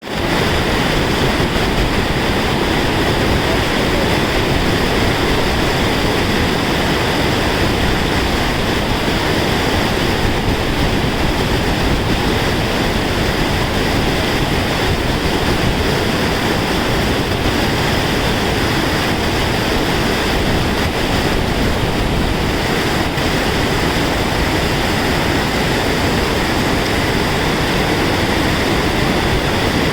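Steady rush of flowing water, like a fast mountain stream or small waterfall, even and unbroken throughout.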